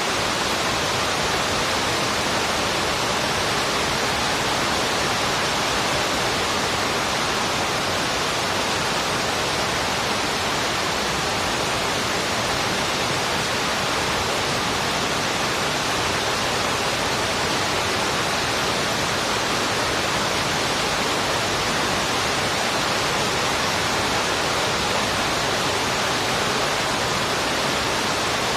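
Heavy rain falling steadily: an even, unbroken hiss that neither swells nor drops.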